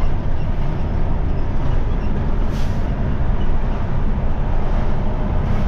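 Steady road and engine rumble heard inside a moving vehicle's cab, with a brief hiss about two and a half seconds in.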